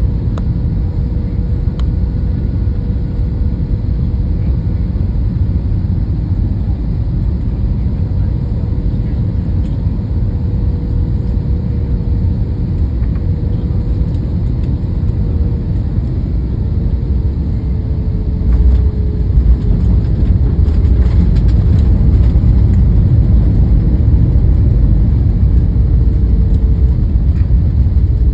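Airliner cabin noise during landing: a steady low engine drone with a faint hum. About 18 seconds in there is a jolt, then a louder rumble with rattling as the wheels touch down and roll along the runway.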